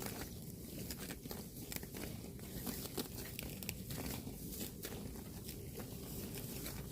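A cow tearing grass and chewing it, a run of crisp crunches at roughly two a second over a low rumble.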